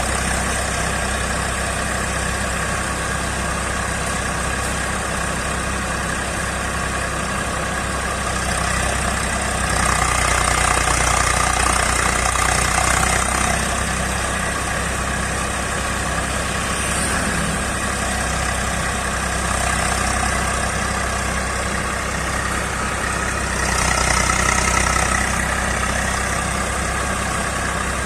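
Eicher 380 tractor's diesel engine running steadily during paddy threshing. It gets louder for a few seconds twice, about ten seconds in and again a few seconds before the end.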